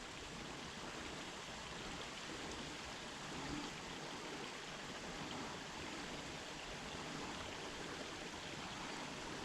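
Faint, steady outdoor hiss with no distinct events.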